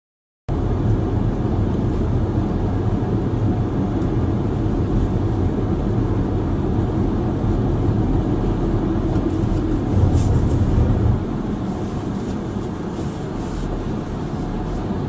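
Steady low rumble of a vehicle running, starting abruptly about half a second in and easing slightly near the end.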